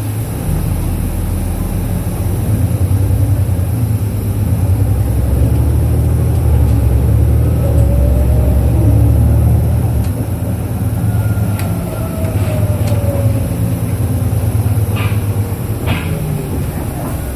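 Onboard sound of a 2005 Isuzu Erga KL-LV834 city bus's V8 diesel engine pulling the bus along, a heavy low rumble inside the cabin that eases off about ten seconds in. A faint whine rises and falls in pitch midway, and a few sharp clicks come near the end.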